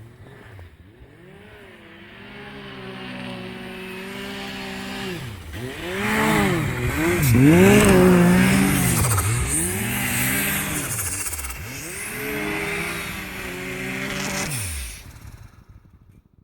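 Turbocharged Yamaha Nytro snowmobile's three-cylinder four-stroke engine being revved up and down again and again, its pitch swooping up and falling back several times, with turbo flutter as the throttle closes. The owner hopes a softer blow-off valve spring will cure the flutter. The sound fades out about fifteen seconds in.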